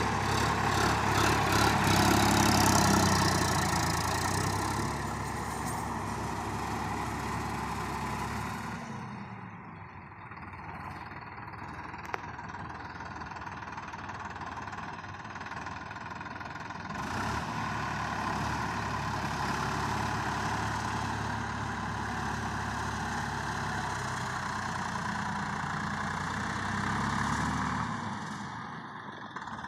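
Sonalika DI 50 RX Sikander tractor's diesel engine idling steadily. Its sound drops suddenly about nine seconds in and comes back up about eight seconds later, with a short rise in engine speed near the end.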